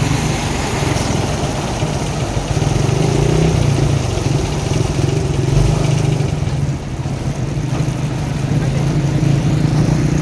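A vehicle engine running steadily with a low drone, dipping slightly in level about two-thirds of the way through.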